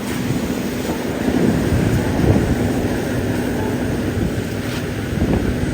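Strong wind buffeting the microphone in gusts, with a faint steady low hum underneath.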